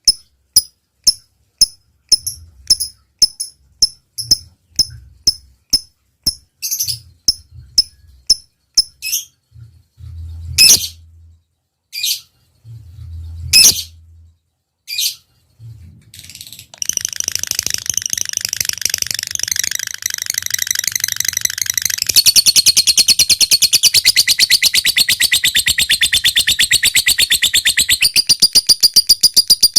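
Lovebird calling: sharp single ticks about twice a second (the 'ngetik'), a few longer high shrieks, then from about halfway a long unbroken rapid chatter that grows louder, the 'ngekek panjang' trill prized in singing lovebirds.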